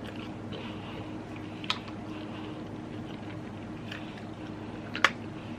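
Faint eating and handling noises over a steady low hum, with two short sharp clicks, the louder one about five seconds in.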